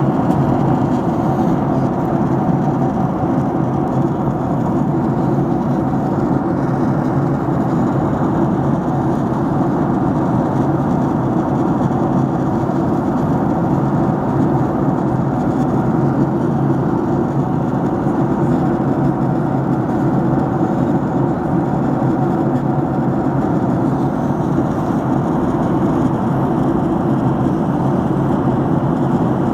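Steady cabin noise of an airliner in flight: the even rush of engines and airflow heard from a window seat, low-pitched and unchanging.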